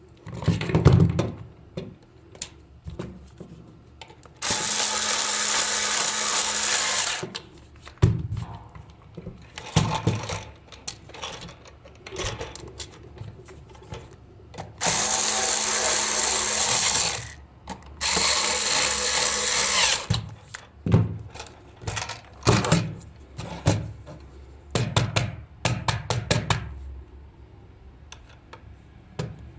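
A small power tool running in three steady bursts of two to three seconds each, with clicks and knocks of handling between them.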